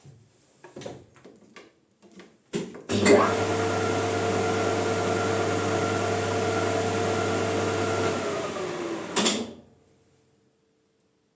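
A few light clicks of handling, then the Maximat lathe's electric motor starts and runs steadily with a hum and a whine for about five seconds; it is switched off, the whine sags slightly as it slows, and it ends with a short burst of noise before stopping.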